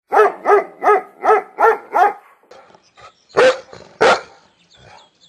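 Dog barking: a quick run of six barks at about three a second, then two more separate barks.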